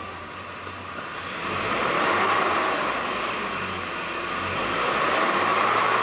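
1999 Toyota Townace Noah engine running, its sound swelling about a second and a half in, easing off, then swelling again near the end.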